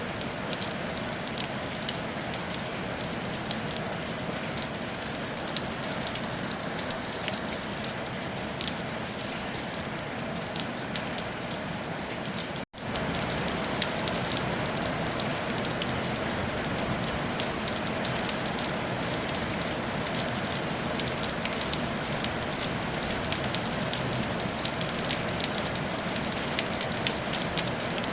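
Steady rain falling on a tile roof, dense patter of many small drop impacts. It cuts out for an instant about halfway through, then resumes slightly louder.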